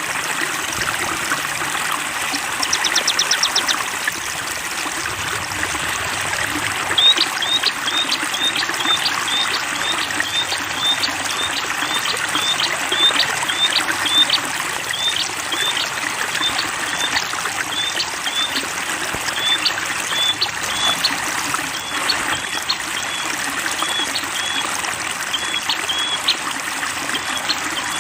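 Flowing water trickling steadily, like a small stream. Over it, a small songbird repeats a short high chirp about twice a second from about seven seconds in, after a brief rapid trill near the start.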